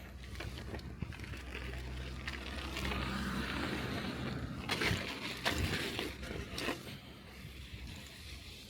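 Bicycle tyres rolling through snow and wet slush with a steady hiss. A low hum swells and fades a few seconds in, and a handful of sharp knocks and rattles come near the middle, as from the bike jolting over bumps.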